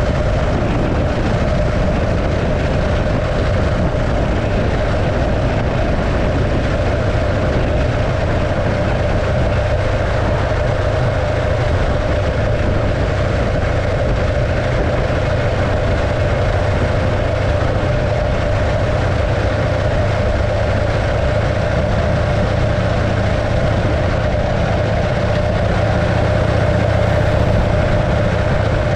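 1915 Arcade motorcycle's 650cc JAP V-twin engine running steadily, with a deep rumble that grows a little louder near the end.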